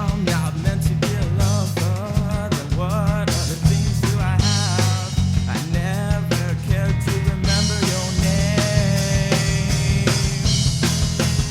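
Progressive rock band playing: a drum kit and a bass line under a wavering melody line, steady and loud.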